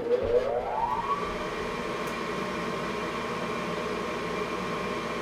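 Draft inducer motor of a York Diamond 80 gas furnace starting at the beginning of a heat cycle: a whine that rises in pitch over about a second, then settles into a steady running hum.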